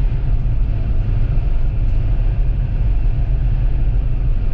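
Steady low rumble inside a Toyota Land Cruiser's cabin driving through a blizzard: road noise and strong wind buffeting the vehicle.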